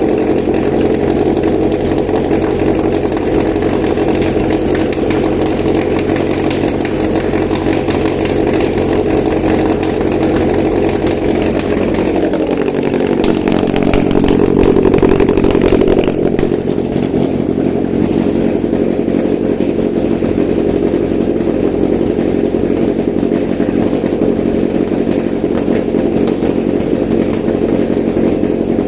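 Toyota 2ZR-FE 1.8-litre inline-four petrol engine running steadily on a test stand, checked as a used engine. About halfway through, its pitch briefly dips and then recovers.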